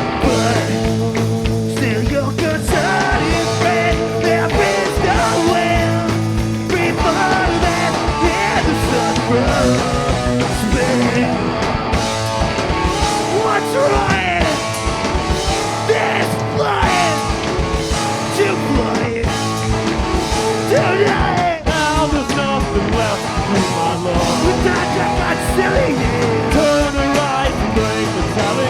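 A rock band playing live, loud distorted guitars, bass and drums with a vocal line, in a punk rock style.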